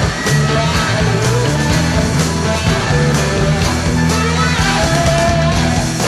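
Live psychedelic rock band playing an instrumental passage: electric guitar over bass and drums with a steady beat.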